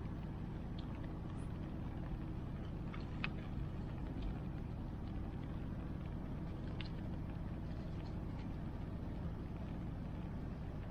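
Wood campfire crackling, with a few sharp pops scattered through, over the steady low rush of a river.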